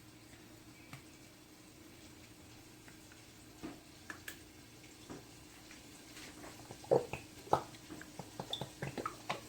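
Ketchup bottle and bowl being handled as ketchup goes in for a barbecue sauce: scattered faint clicks and knocks, more frequent over the last few seconds, over a faint steady hum.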